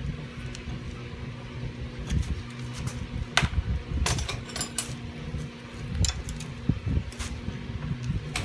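Metal hand tools clinking and knocking against car suspension parts a handful of times, irregularly, over a steady low hum.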